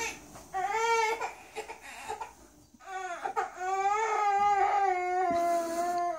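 A baby crying: a short wail about a second in, then a long, drawn-out wail held for about three seconds.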